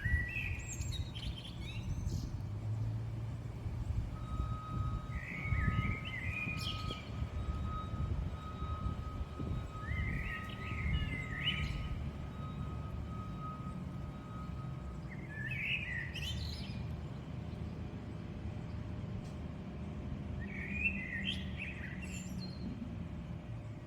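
A songbird singing a short warbling phrase about every five seconds, five times in all, over a steady low background rumble.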